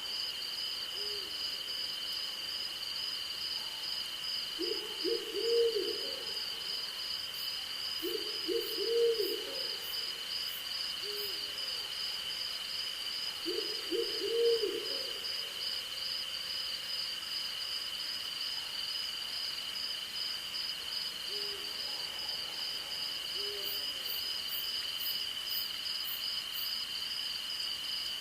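An owl hooting in three short runs of several notes, with fainter single hoots between, over the continuous chirring of night insects: one steady high drone and one rapid pulsing trill. Two brief spells of faint high ticking come through, near the middle and near the end.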